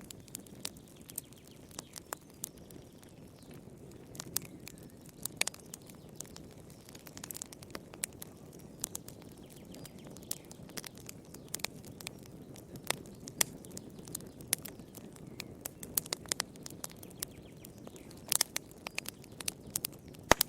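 Wood fire burning in a fireplace: irregular sharp crackles and pops over a steady low rumble of flame, with a small cluster of louder pops near the end.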